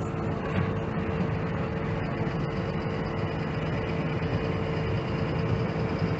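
Dump truck's diesel engine running steadily under way, with a constant whine over the low rumble.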